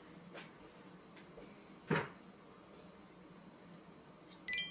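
Quiet room tone with a single sharp knock about two seconds in, like a cupboard or door being handled, and a brief cluster of high electronic beeps near the end.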